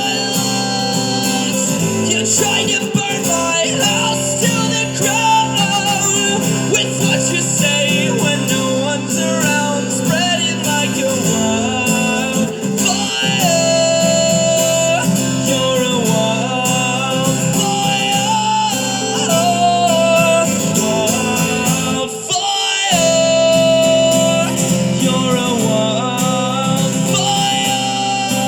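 Live rock music: guitar playing with a voice singing long held, wordless-sounding notes, with a brief break in the low end about twenty-two seconds in.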